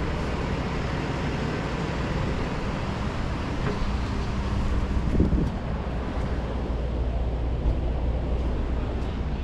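A vehicle engine idling steadily with a low rumble, with wind on the microphone; a brief higher-pitched sound about five seconds in.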